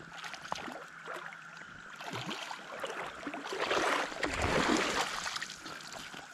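River water splashing and sloshing, loudest for about a second and a half midway through, over the steady high hum of a cicada chorus.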